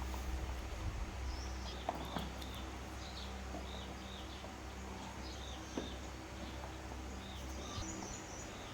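Small birds chirping repeatedly in the background over a steady low hum, which cuts out near the end. A few light clicks are heard.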